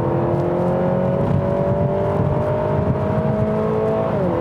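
The 2019 Acura ILX's 2.4-litre i-VTEC four-cylinder, heard from inside the cabin, revs up under acceleration with its pitch climbing steadily. A little after four seconds in the pitch drops as the eight-speed dual-clutch transmission upshifts by itself at around 6,600 rpm, short of the 7,000 the engine will pull to.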